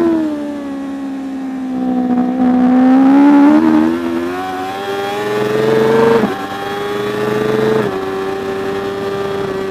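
Racing superbike engine under hard riding. The revs fall at the start, then climb steadily for a few seconds under acceleration and drop sharply twice, about six and eight seconds in, as it shifts up a gear each time.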